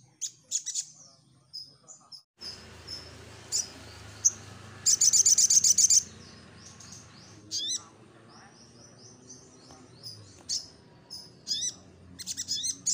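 Sogon sunbird (sogok ontong) singing: high, thin chirps and fast trilled bursts, the loudest a rapid trill about five seconds in, over a low steady background hum that starts a couple of seconds in.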